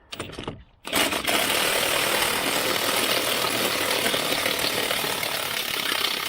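Impact wrench hammering on a wheel lug nut. It starts about a second in with a steady, loud rattle and stops after about six seconds. The lugs are stubborn and rounded off and will not come loose.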